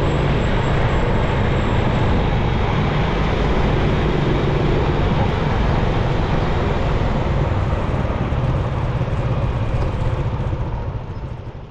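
Motorcycle riding: a steady engine note under wind and road noise, fading out near the end.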